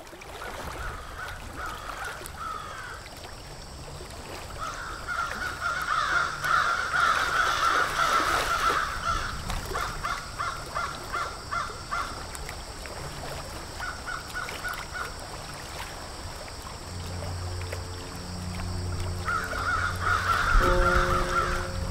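Outdoor ambience with bird calls repeated in several bouts. Sustained low music tones fade in about three-quarters of the way through, with melodic notes starting near the end.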